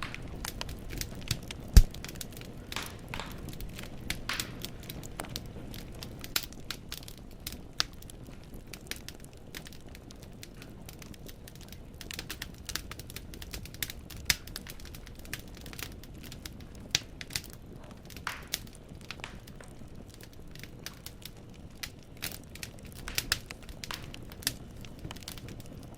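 Wood logs burning in a fireplace, crackling with irregular snaps and pops over a steady low rumble of the flames, with one much louder pop a little under two seconds in.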